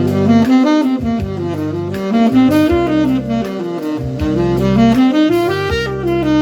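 Saxophone running a scale quickly up and down, again and again, over a backing track with steady bass. It is the plain ascending-and-descending scale that sounds monotonous.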